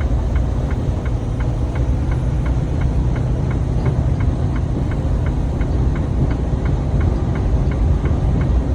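Steady low rumble of a truck driving in high wind, with engine, road and wind noise heard inside the cab. A light, regular tick repeats about twice a second.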